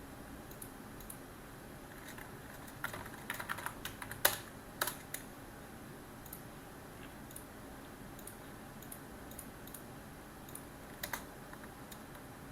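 Typing on a computer keyboard: a quick run of keystrokes about three to five seconds in, with one much louder strike in the middle, then scattered single key presses over a faint steady hiss.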